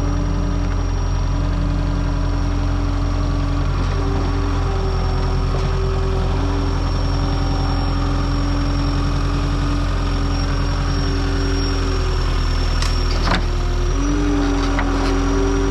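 An engine idling steadily, with a brief click and a small shift in pitch near the end.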